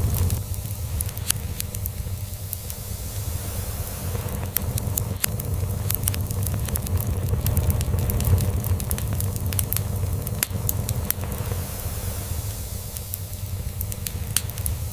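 Log fire crackling, with frequent sharp pops and snaps, over a continuous low purring rumble that swells and fades slowly, as of a cat purring.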